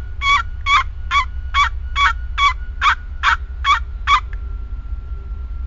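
Hunter's turkey call sounding a run of about ten quick yelps, evenly spaced at about two and a half a second, stopping a little after four seconds in; low rumble underneath.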